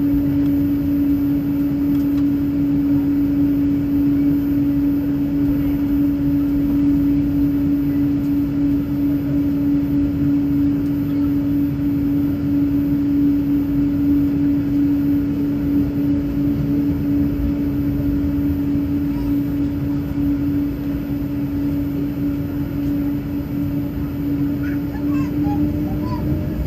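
Jet airliner cabin noise while the plane is on the ground before takeoff: a steady engine and air-system hum with one held drone tone over a low rumble, the tone edging slightly higher near the end.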